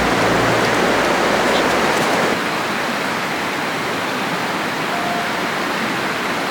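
Steady rush of a clear mountain river's flowing water, an even hiss with no separate strokes.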